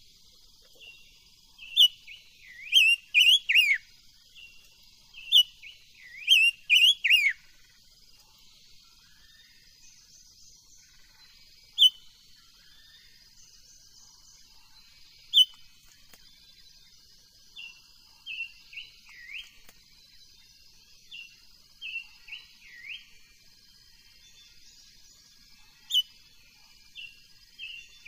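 A songbird sold as a 'chim ngũ sắc' singing short, bright phrases of quick downward-slurred whistled notes. The phrases come in loud clusters in the first half, then in softer phrases later. A faint steady high hiss runs underneath.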